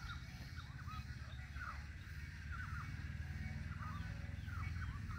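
Birds calling in many short chirps that hook downward in pitch, over a steady low hum.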